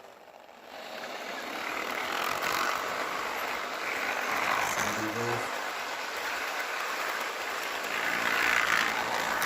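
Hornby model train running on the track: the wheels of a long rake of passenger coaches roll and rattle along the rails in a steady rushing noise that builds up about half a second in and swells twice as the train passes.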